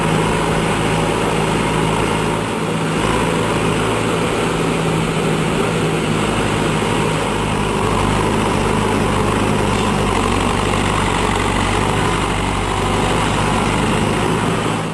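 Tractor engine running loudly at a steady speed, its pitch holding constant throughout.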